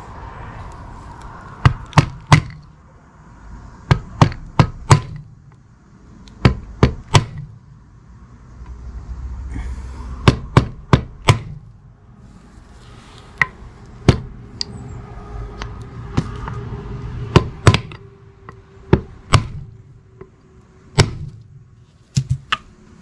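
Hammer blows, mostly in quick runs of three or four sharp strikes, about twenty in all.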